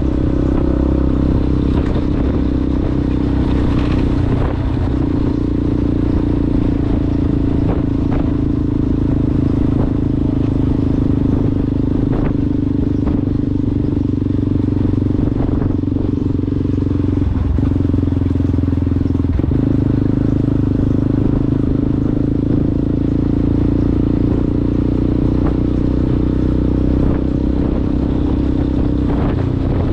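Yamaha Ténéré motorcycle engine running steadily at a fairly constant speed through an aftermarket Coyote exhaust while riding off-road, with scattered knocks and clatter from the rough ground.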